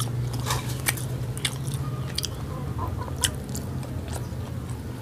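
A person chewing a mouthful of rice and cooked conch close to a clip-on microphone, with irregular wet clicks of the mouth.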